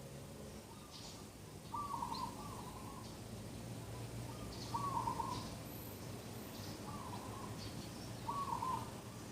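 Birds calling in the morning: a short low call repeats about every two to three seconds, with faint higher chirps from other birds between them.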